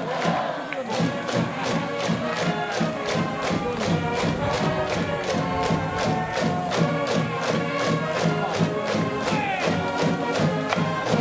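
A cheering section's band playing a fight song, with sustained pitched melody notes over a steady, even drum beat and the crowd chanting along.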